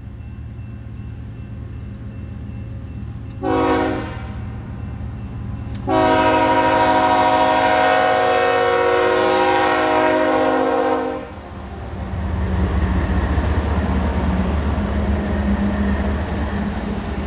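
Diesel freight locomotive horn sounding a short blast, then a long blast of about five seconds, over the rising rumble of the approaching train. After the horn stops, the louder rumble and wheel noise of the train passing take over.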